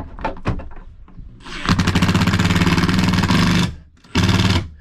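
A power drill driving a mounting screw for the rooftop A/C, with a run of about two seconds and then a short final burst near the end as the screw seats.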